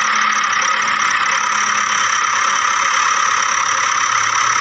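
Steady engine sound effect for a toy backhoe loader: an even mechanical whir with a thin high whine in it, unchanging throughout and cut off abruptly.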